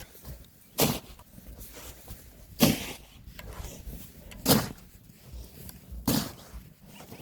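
Four short, sharp shovel strokes into snow, one about every two seconds, as a snow shovel is pushed and dumped in a steady shoveling rhythm.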